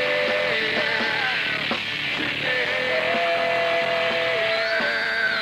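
A rock band playing live with drums and distorted instruments, a lead line holding long notes that step up and down in pitch, each held for a second or two.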